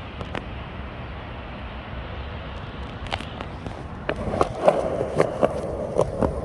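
Skateboard rolling on pavement: a steady low wheel rumble, then from about four seconds in a louder, rougher roll with a run of sharp clacks.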